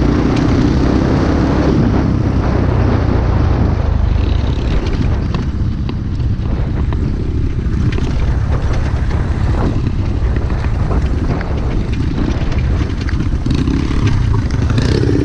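Pit bike engine running under way while riding, heavily buffeted by wind rumble on the microphone.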